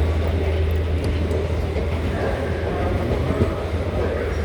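Steady low hum and rumble of a train running nearby in a rail station.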